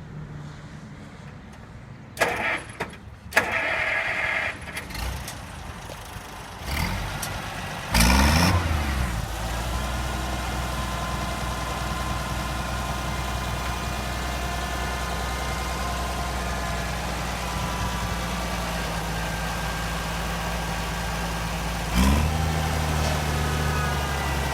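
Oliver 1550 tractor's gasoline engine being started: a few short knocks and rattles, then about eight seconds in it catches with a loud burst and settles into a steady idle. About twenty-two seconds in, the throttle is opened a little and the engine runs steadily at a faster speed.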